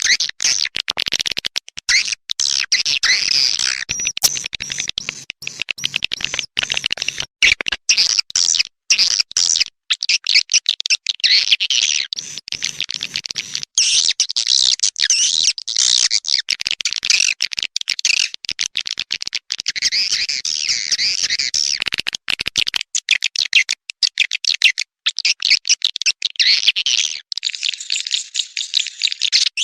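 Swiftlet lure call: a recording of edible-nest swiftlet twittering, dense rapid chirps set high in pitch, stuttering with many short sharp breaks, played to call swiftlets in to a bird house.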